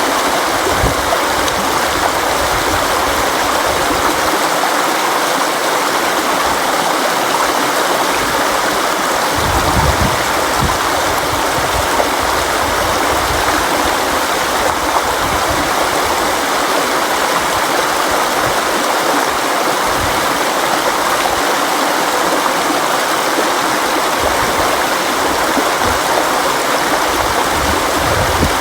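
River water flowing steadily over rocks: a continuous rushing and splashing with occasional deeper gurgles.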